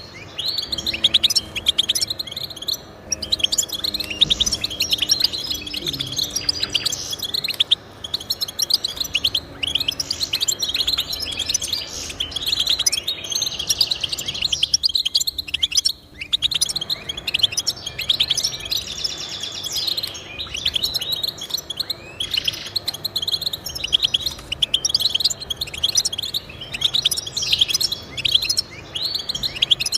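Goldfinch singing: a fast, continuous twittering song of rapid chirps and trills, with a short pause about halfway through.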